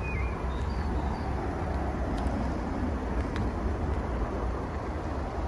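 Mercedes-Benz SLK200's 1.8-litre four-cylinder petrol engine idling steadily, with a few short bird chirps in the first second.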